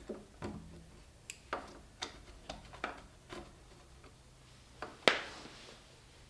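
Irregular clicks and knocks from pliers and a power cable being worked and tugged through a channel in a workbench frame, with one sharper knock about five seconds in.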